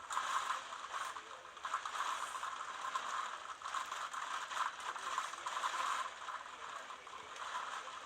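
Rapid, continuous rattling that starts abruptly and eases off near the end.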